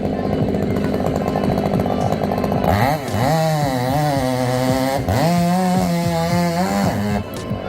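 Chainsaw engine running at a steady pitch; from about three seconds in, its pitch dips and rises several times as it is revved up and down, then settles near the end.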